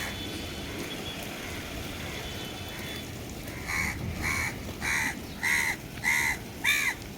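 A crow cawing: one call near the start, then a run of six harsh caws about two a second in the second half.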